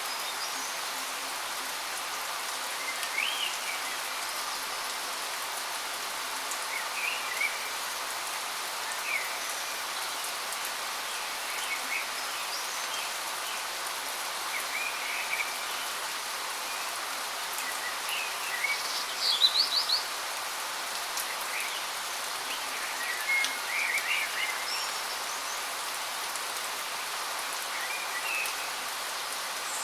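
Waterfall: a steady rush of falling water, with birds chirping now and then over it. The loudest moment is a brief cluster of high chirps about two-thirds of the way through.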